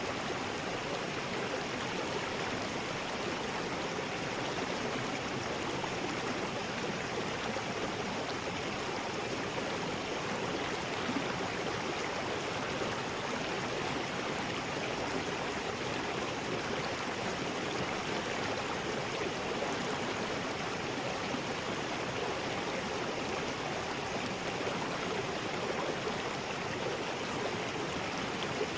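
River rapids: water rushing steadily over rocks, an even continuous roar of white water with no change.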